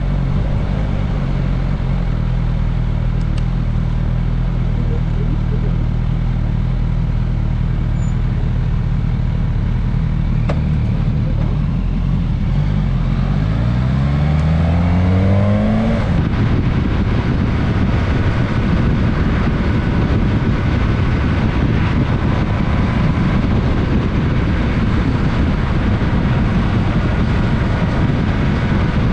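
Suzuki GSX-S1000S Katana's inline-four engine running steadily at low revs, then accelerating with a rising pitch about halfway through. Once it is up to speed, the engine gives way to wind rush over the onboard camera.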